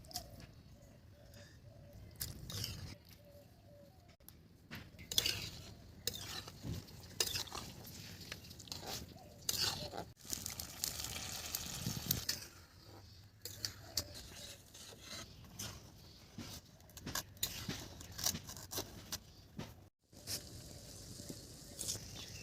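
A metal utensil stirring and scraping in a cooking pot, with scattered clinks and knocks, and a brief hiss about halfway through.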